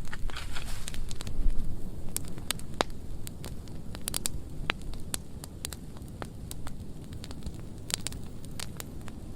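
A burn pile of dry pruned wood burning: a low, steady rumble of flames with irregular sharp pops and crackles throughout.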